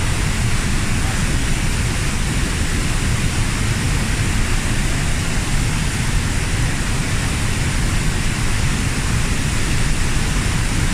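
The 15 m high Kozjak waterfall falling, a loud, steady rush of water with a deep rumble underneath.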